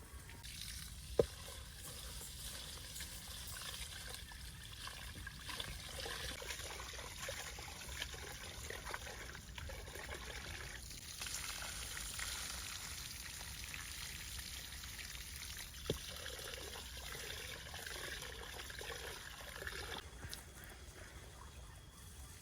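Water pouring and trickling, with a sharp knock about a second in and another near sixteen seconds.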